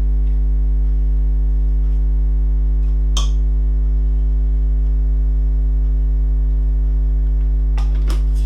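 Loud, steady electrical mains hum on the recording, with a stack of harmonics. It is broken by a brief utensil clink about three seconds in and two more near the end, as coconut oil is spooned out for frying.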